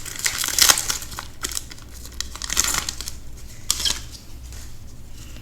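Foil wrapper of a Magic: The Gathering set booster pack being torn open and crinkled, in several short sharp bursts over the first few seconds, then quieter handling.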